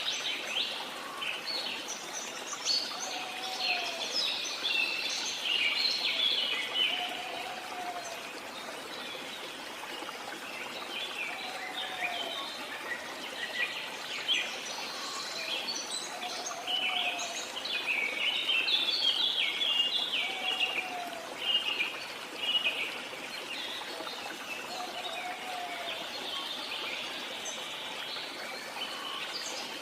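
Many birds chirping and calling over a steady rush of water. A short, low call repeats about every four seconds.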